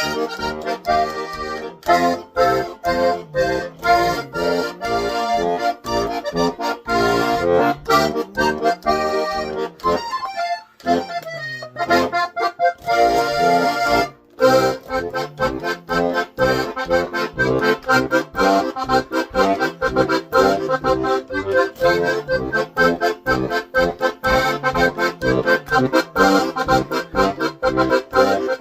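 Accordion playing a polka tune with a steady bouncing beat, breaking off briefly about halfway through.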